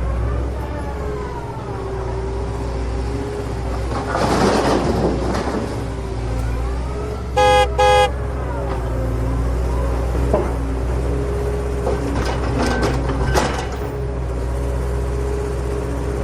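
A vehicle engine running with its pitch rising and falling, as if revving under varying load. About seven and a half seconds in there are two short horn toots in quick succession.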